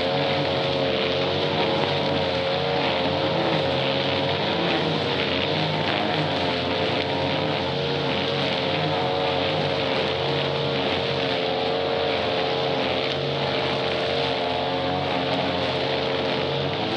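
Grass cutter's small petrol engine running steadily at high revs, with a high buzzing tone.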